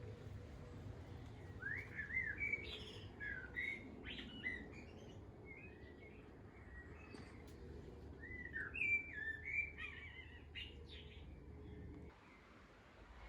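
A small songbird singing in two bursts of quick, twittering phrases, over a steady low background rumble.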